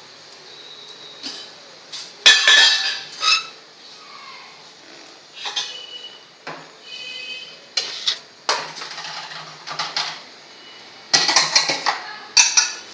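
Metal cookware and utensils clanking and clinking in a kitchen: scattered knocks, some ringing briefly like struck steel, with a quick run of clatter near the end.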